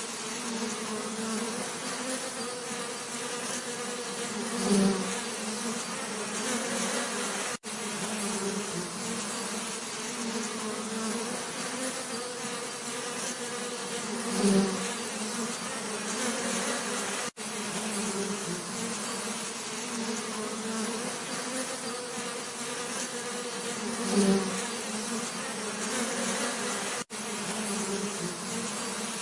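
Bees buzzing steadily, with a low droning hum; three times, about ten seconds apart, a single bee's buzz swells briefly louder close by. The sound cuts out for an instant three times.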